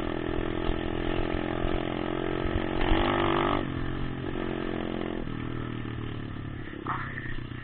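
Motocross bike engine running while being ridden, opening up briefly about three seconds in, then dropping to a lower, steadier note a couple of seconds later.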